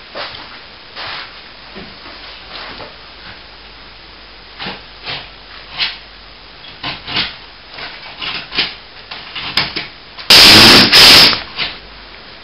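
Scattered light taps and scrapes on plasterboard, then near the end two very loud, distorted blows of a hammer driving fixings into the ceiling sheet.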